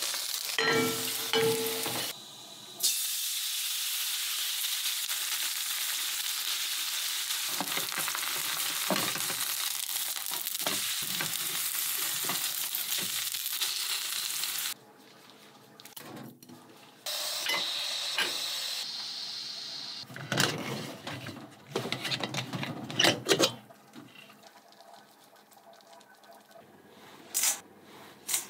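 Buchujeon (Korean chive pancake) frying in oil in a frying pan: a steady sizzle for about twelve seconds that cuts off suddenly about halfway through. Scraping and clattering of a spatula and pan come before and after it.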